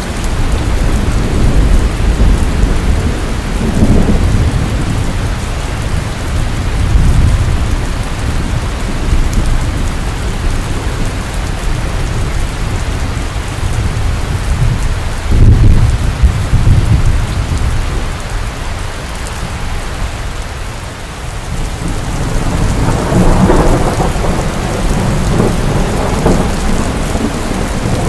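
Steady rain with rolling thunder: low rumbles swell several times, the loudest about fifteen seconds in, with another long roll near the end.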